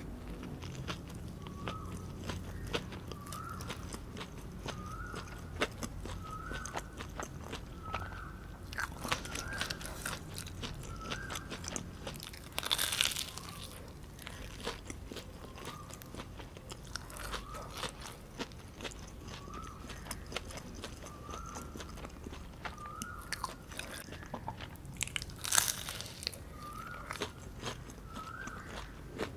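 Close-miked mouth sounds of eating: biting and chewing with crisp, crunchy clicks, and two louder bites, one about halfway through and one near the end.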